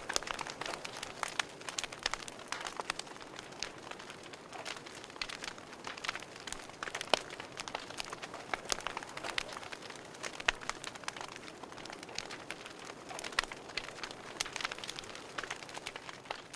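Wood fire burning in a fireplace: steady crackling, with irregular sharp pops and snaps over a soft hiss.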